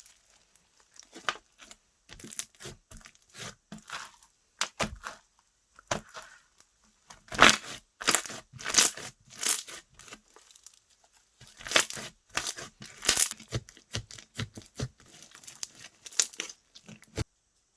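Slime being squeezed, stretched and pressed by hand, giving irregular crackling and popping clicks, with denser, louder runs in the middle and later on. The clicks cut off abruptly just before the end.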